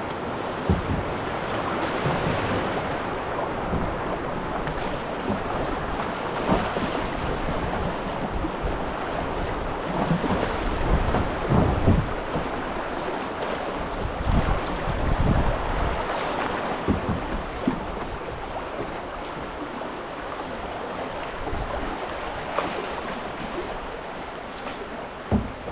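River rapids: a steady rush of fast water around a canoe, with wind buffeting the microphone in irregular low thumps.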